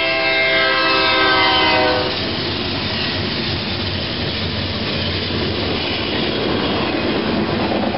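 Diesel locomotive air horn sounding a held chord that cuts off about two seconds in, then the freight train rushing past close by with a steady roar of wheels and cars on the rails.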